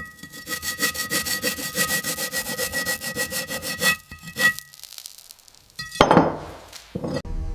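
Rapid back-and-forth scraping strokes of a hand tool, about six a second, with a steady ringing tone running through them, stopping about four seconds in. About six seconds in comes one loud hit with a falling sweep, and music starts just before the end.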